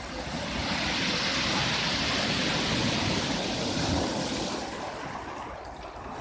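Storm waves on the Black Sea breaking and rushing up the shore: a loud surge of surf that builds over the first second, holds, and eases off after about four and a half seconds.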